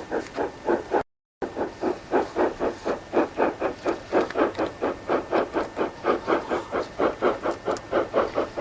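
GER N7 0-6-2T tank engine working under steam: a steady, rhythmic exhaust beat of about four chuffs a second. The sound drops out completely for a moment about a second in.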